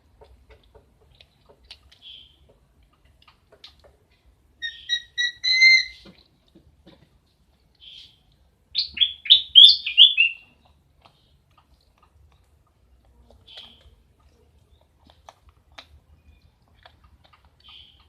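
Bird calling: short high whistled chirps every few seconds, with two louder bursts of rapid chirps, the second a quick run of falling notes.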